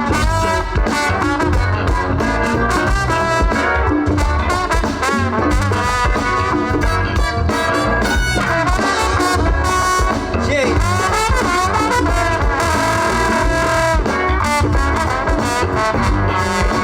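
A live band playing an upbeat song, with a trumpet carrying the lead over drums and bass.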